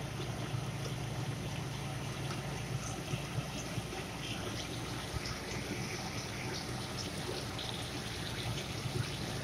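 Sliced luffa (sponge gourd) sizzling and bubbling in its own juices in a nonstick frying pan, a steady watery frying sound with small scattered crackles.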